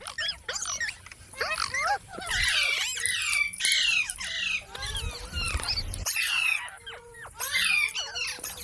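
Pet green parrot chattering and squawking: a rapid string of short whistled chirps and harsh screeches, one after another with brief gaps.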